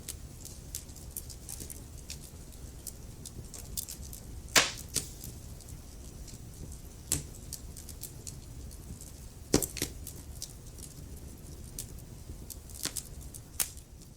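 Wood fire crackling in a fireplace: a steady low rumble of burning with frequent small crackles and several sharp pops, the loudest about four and a half seconds in and again near ten seconds.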